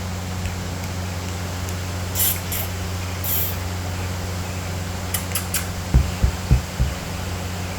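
Steady low hum throughout, with a few short hissy rustles in the first half, quick clicks, and a cluster of low thumps near the end.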